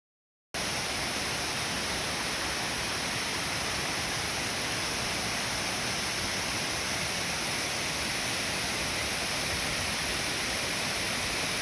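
Waterfall rushing steadily, a dense unbroken hiss of falling water, starting abruptly about half a second in.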